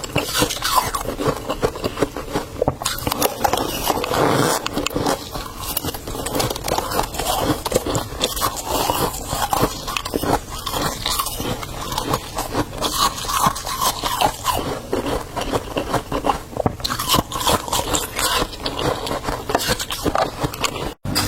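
Frost from a mini fridge's freezer being scraped and bitten, a dense run of irregular crunching and scraping with no pauses. It breaks off for a split second just before the end.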